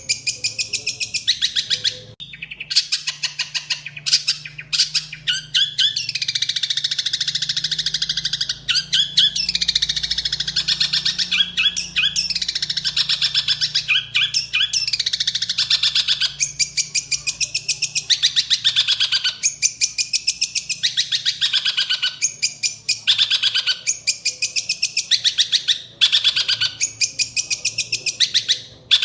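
Long-tailed shrike (cendet) singing a fast, loud, unbroken string of rapid chirps and harsh notes, several to the second, with only brief pauses. The song is laced with mimicked Eurasian tree sparrow chirping.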